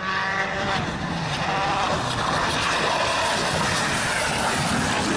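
Racing car engine running hard under a steady rush of road and wind noise, with its pitch heard clearly only in the first second.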